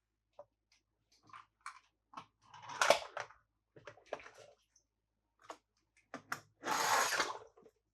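Toys and their packaging being handled: scattered light clicks and taps, a short rustle about three seconds in, and a longer, louder rustle near the end.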